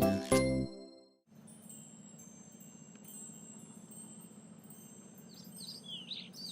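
Cartoon music with a beat ends within the first second. After a brief near-silence comes a faint ambience of soft, high, sustained chiming tones, with a few bird chirps near the end.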